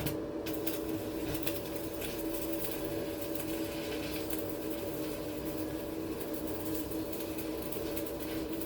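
A high-current electrical device, rated at about 150 A, running with a steady loud hum and an irregular crackle over it, as of arcing or sparking. It switches on abruptly and cuts off suddenly near the end.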